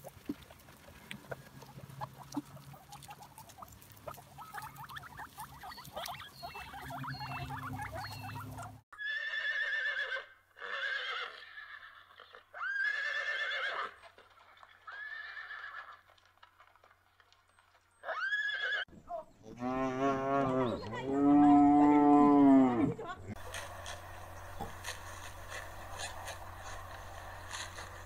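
A run of short, high calls that rise and fall in pitch, then a horse whinnying loudly with a wavering pitch about twenty seconds in. Faint rustling comes before the calls, and a low steady hum of outdoor ambience follows the whinny.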